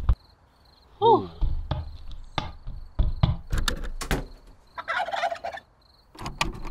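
A turkey gobble about five seconds in, following a run of sharp clicks and knocks.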